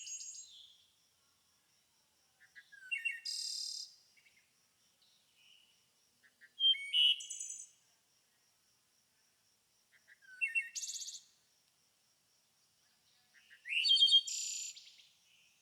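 A songbird singing short, rapid phrases of chirps and buzzy notes, about a second each, repeated four times at intervals of about three and a half seconds. A faint, steady, high pulsing tone runs underneath.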